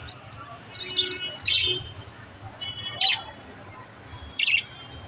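Pet budgerigars giving short, sharp chirps, four in all, spaced about a second apart, over a faint low hum.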